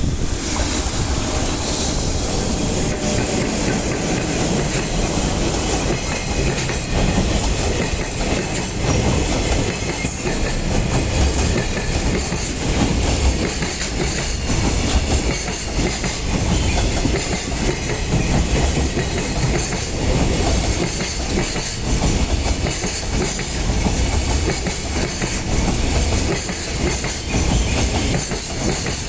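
Freight train running past, wagons' wheels clacking over the rail joints in a continuous dense rumble, with a steady thin high whine throughout.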